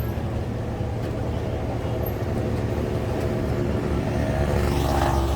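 A large engine running with a steady low rumble, growing louder toward the end.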